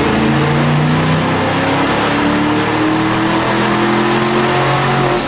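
Ford 5.0-liter V8 of a 1994–95 Mustang GT pulling under load on a chassis dyno, its engine note climbing steadily in pitch as the revs rise.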